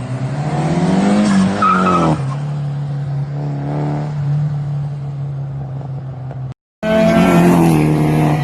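Turbocharged Nissan SR20DET four-cylinder engine in a Toyota Celica TA22 race car, its revs climbing for about two seconds and then holding a steady drone. The sound cuts out briefly near the end and comes back with the engine note falling.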